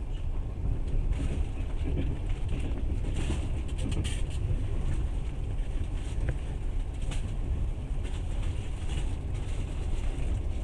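Passenger train running along the track, heard from inside the carriage: a steady low rumble of the wheels on the rails, with a few short rattles and clicks.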